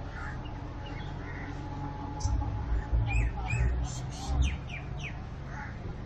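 Birds chirping in a quick run of short, sharp calls, several of them sweeping downward, over steady outdoor background noise, with a few low thumps among the calls.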